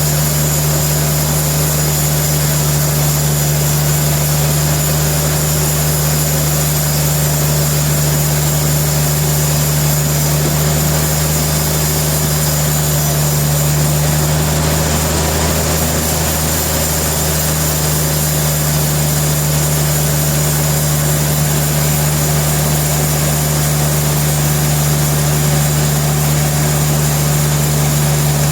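Sawmill machinery running steadily: a constant low engine hum that dips slightly about halfway through.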